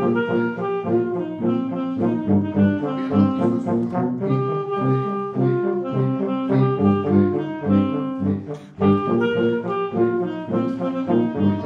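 Brass band playing in chords over a pulsing bass line, breaking off briefly about eight and a half seconds in and then starting again.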